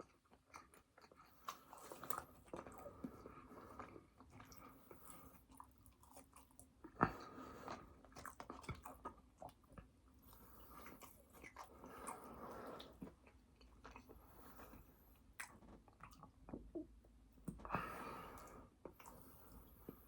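Close-miked chewing and biting of fast food, with many soft, irregular mouth clicks and smacks and one sharper click about seven seconds in.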